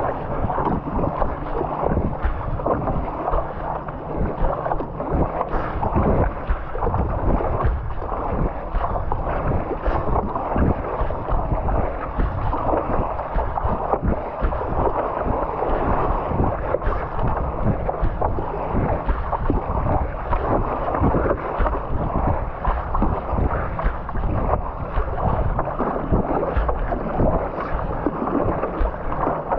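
Water splashing and sloshing around a stand-up paddleboard under hard paddling, with wind buffeting the microphone.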